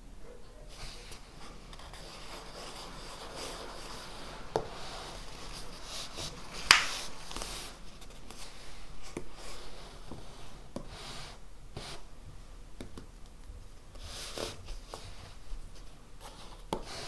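Writing on paper: scratchy strokes with a few light knocks on the desk, and one sharp click about seven seconds in that is the loudest sound.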